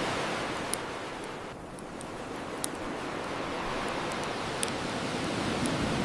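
Ocean waves washing on a shore as a steady rushing hiss that ebbs about a second and a half in and swells again, with a wood bonfire crackling over it in a few sharp pops.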